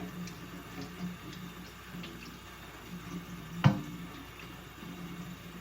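Water running and dripping in a sink while small car parts are washed, with faint small clinks and one sharp knock about three and a half seconds in.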